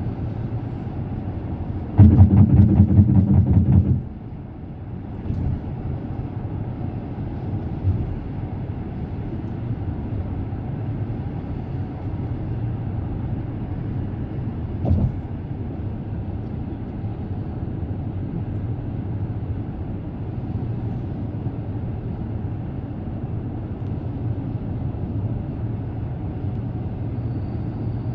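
Car driving at speed: steady low road and tyre rumble. About two seconds in, a loud rapid rattling rumble lasts for about two seconds, and a single thump comes about halfway through.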